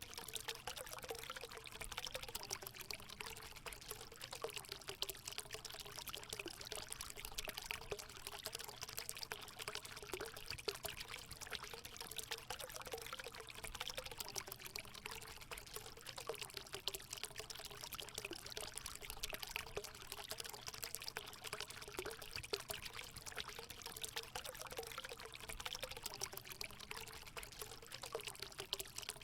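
Water steadily pouring and trickling into a hot spring pool, an unbroken splashing with a faint wavering gurgle beneath it.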